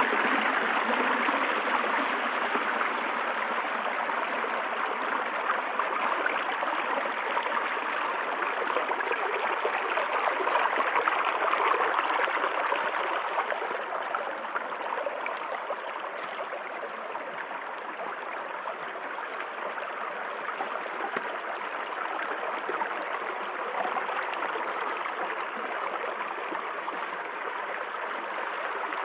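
Steady rushing noise with a fine, even texture, swelling slightly about ten seconds in and easing a little after about thirteen seconds.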